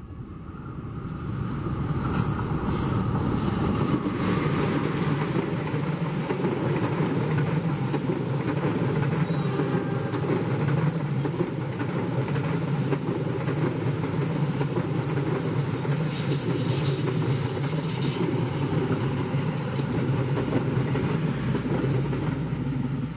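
Diesel-hauled passenger train passing close by: the sound builds over the first few seconds as the locomotive goes past, then holds steady as a long line of stainless-steel coaches rolls by with continuous wheel-on-rail noise.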